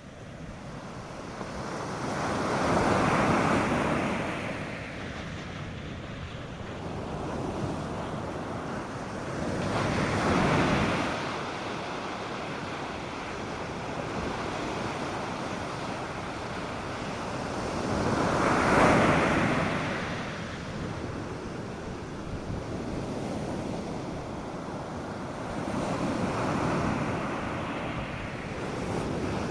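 North Sea surf on a sandy beach: waves breaking and washing up in slow swells about every eight seconds, the loudest near the middle, over a steady wash of water. Light wind noise on the microphone.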